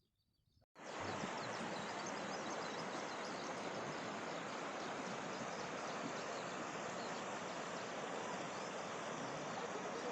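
A steady, even rushing hiss of outdoor ambience that cuts in suddenly about a second in, with faint high bird chirps above it.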